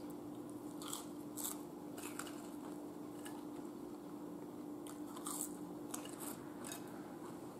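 A person chewing and biting a mouthful of fried chicken wing and fries, heard as faint, irregular mouth clicks.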